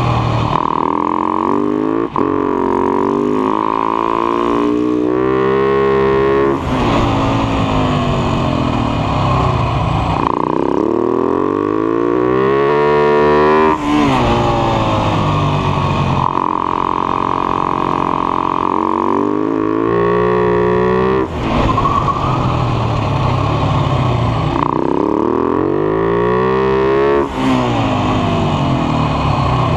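Husaberg FS 570 single-cylinder four-stroke supermoto engine at race speed, its revs rising and falling repeatedly through the corners. Several brief dips in the sound, about five in all, mark gear changes.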